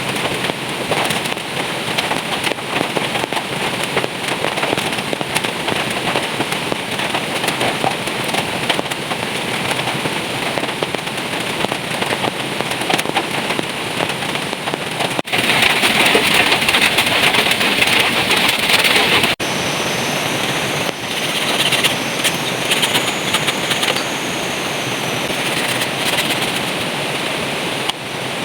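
Heavy rain falling, a dense crackling patter of drops. It turns abruptly louder about halfway through for around four seconds, then drops back.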